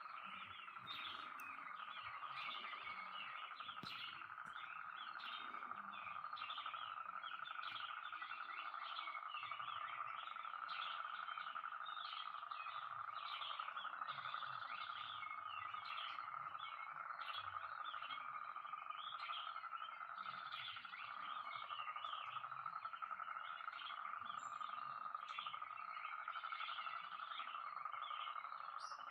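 A dense chorus of many frogs calling together after rain: a steady, unbroken din with many short, overlapping calls on top.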